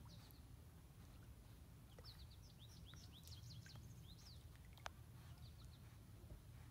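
Faint birdsong: a quick run of short, high chirps about two to four seconds in, with a few more near the end, over a steady low rumble. One sharp click about five seconds in.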